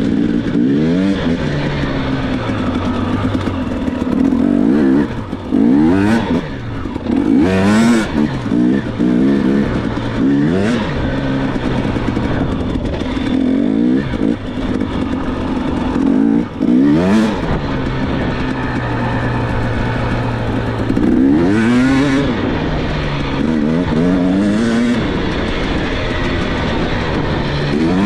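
Dirt bike engine being ridden, revving up and dropping back again and again, with steadier stretches of even throttle in between.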